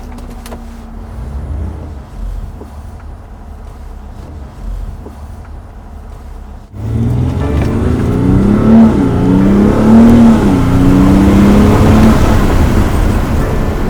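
BMW M50d's inline-six diesel running low and steady, then about halfway through it suddenly pulls hard at full throttle in a launch, its pitch rising and falling as it accelerates.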